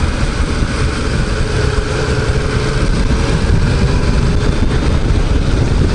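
Yamaha MT-07's 689 cc parallel-twin engine pulling steadily in third gear at about 3,000 rpm, the pitch rising slightly through the middle.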